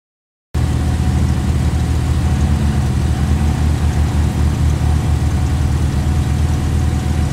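Jeep engine idling steadily with a low, even pulse, heard from inside the cab; it cuts in abruptly about half a second in, after silence.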